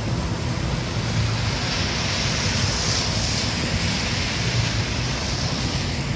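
Storm street noise: a steady low rumble of wind buffeting the microphone under a rushing hiss of rain and wet pavement, the hiss swelling about two seconds in and dying away near the end.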